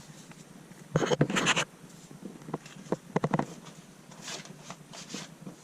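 Self-adhesive bitumen sound-deadening mat being rolled out and pressed down: a burst of crackling and scraping about a second in, then scattered clicks and rustles.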